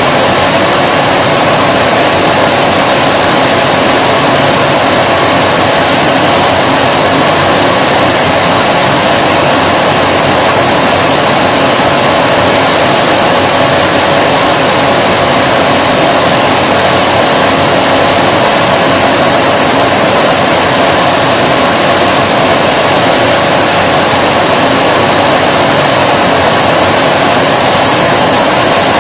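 Vacuum cleaner running steadily at constant speed, a loud, even whooshing hum with a strong mid-pitched tone of the motor and airflow.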